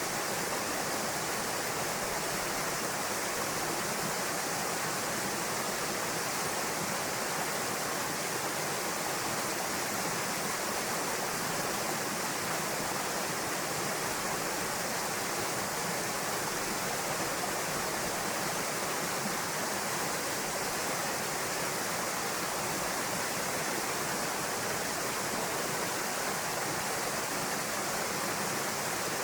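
Waterfall pouring into a pool: a steady, even rush of falling and splashing water that never lets up.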